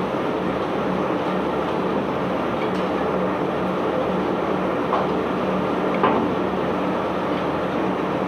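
Steady mechanical rumble of barge unloading machinery with a constant low hum and a couple of faint knocks, about five and six seconds in.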